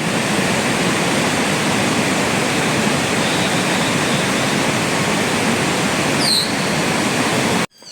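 Steady rushing of fast-flowing water, starting and stopping abruptly, with a faint high bird chirp about six seconds in.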